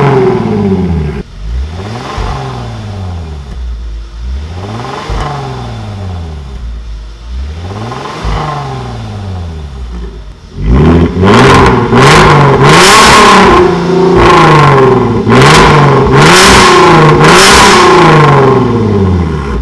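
Genesis G80's 3.3-litre V6 being revved in place through an aftermarket dual variable-valve exhaust. First come three slow, quieter revs, then about halfway through a much louder run of quick repeated revs.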